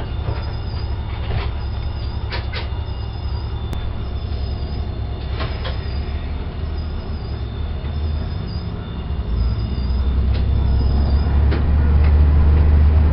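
Diesel railcar running along the track, heard from inside, its engine a steady low drone that grows louder from about nine seconds in. A few sharp clacks from the wheels and running gear come at irregular intervals.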